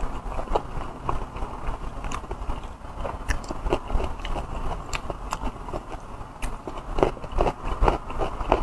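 Close-miked chewing and mouth smacking as a person eats soft braised pork belly and rice, with many short wet clicks. A few sharper clicks from wooden chopsticks against the bowl come near the end.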